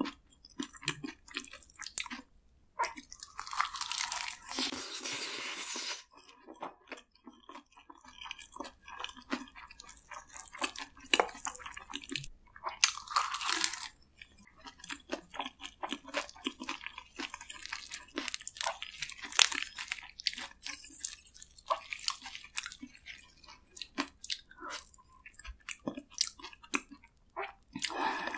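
Close-miked chewing and crunching of rice with roasted seaweed and spicy marinated raw crab, dense with small wet clicks, with two longer crackly stretches about three and thirteen seconds in.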